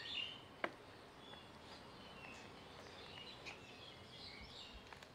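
Faint bird chirps, short high notes scattered through, over a quiet background hiss, with a single sharp click a little under a second in.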